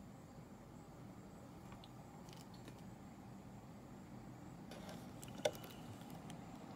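Quiet room hum with a few faint clicks and taps and one sharper click about five and a half seconds in, from plastic action figures being handled and set down.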